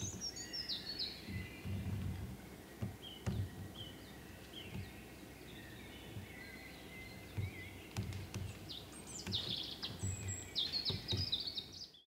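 Forest birdsong: several birds calling in short high chirps and trills over faint background noise, with a few soft low thumps.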